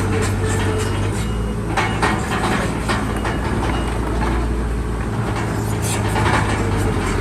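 Bulldozer's diesel engine running steadily under load, with scattered clanks and knocks from its steel tracks and blade.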